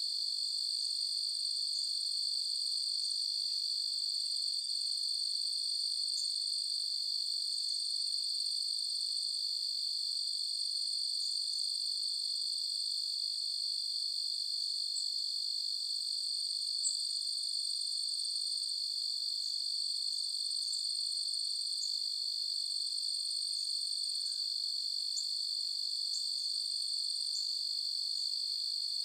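Crickets trilling in an unbroken, high-pitched steady drone, with scattered short higher chirps over it and a single faint click a little past halfway.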